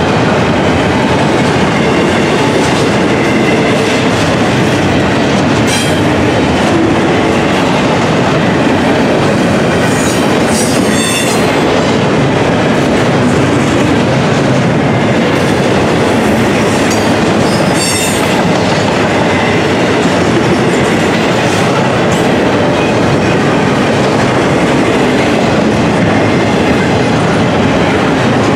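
Loaded double-stack intermodal well cars passing at close range: a steady, loud rolling noise of steel wheels on the rails. Brief high-pitched wheel squeals break through about ten and eighteen seconds in.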